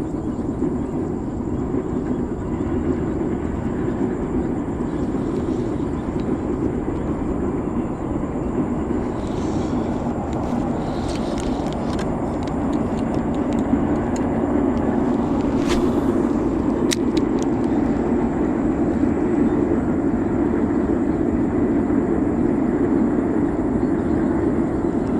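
Steady low rumble of a train passing, growing a little louder about halfway through, with a few sharp clicks in the middle.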